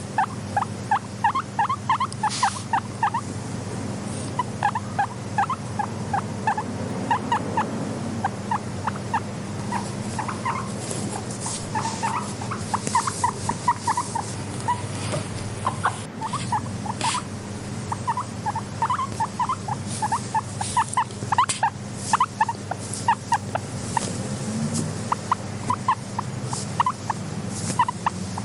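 Guinea pigs calling in quick runs of short squeaky notes, several a second, over a steady low hum.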